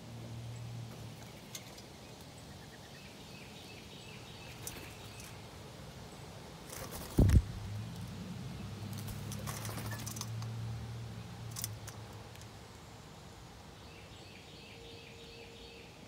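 Small birds chirping at a feeder in short repeated runs, with scattered small clicks and a faint low hum behind them. About seven seconds in comes a single loud, low thump.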